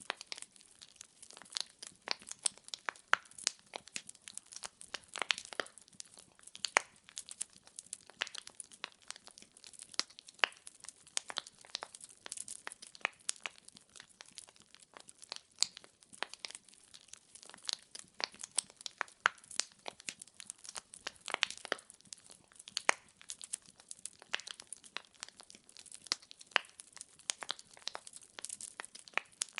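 Wood fire burning in a fireplace, the logs crackling and popping in sharp, irregular snaps over a faint steady hiss.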